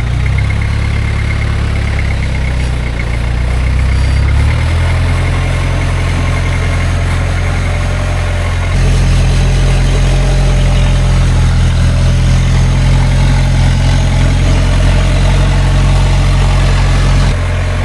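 Toyota LN106 Hilux's 3.0 turbo diesel engine running low and steady at crawling revs under load. Its sound jumps abruptly louder twice and drops again near the end.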